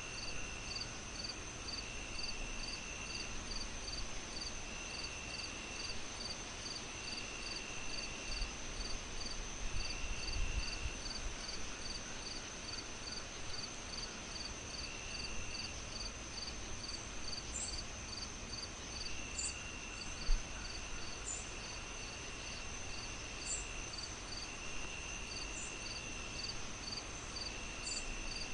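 Layered night insects, crickets chirping: a steady high whine, evenly spaced chirps a little over two a second, and a lower trill that repeats in bursts of about a second, over a steady hiss. A single sharp pop about 20 seconds in.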